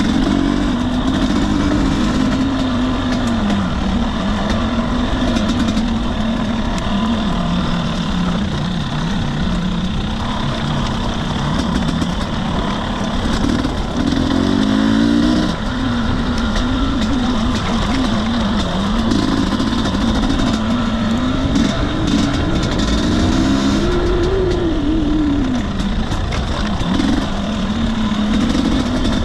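2021 Husqvarna TE250i two-stroke single-cylinder dirt bike engine running under constant throttle changes, its pitch rising and falling again and again, over a steady rushing noise.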